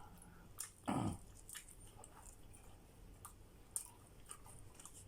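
Close-up chewing and biting of pizza, a string of small sharp mouth clicks and smacks, with one louder, longer sound about a second in.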